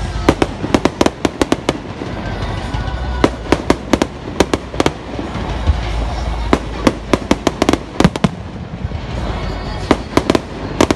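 Fireworks going off: four volleys of rapid sharp cracks and pops, each lasting a second or two, over a steady low rumble.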